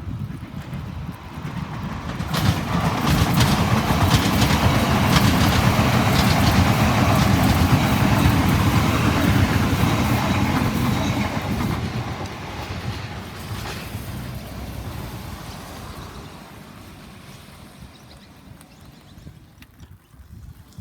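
A train passing close by: the noise builds sharply about two seconds in, stays loud for roughly ten seconds, then fades away as the train recedes.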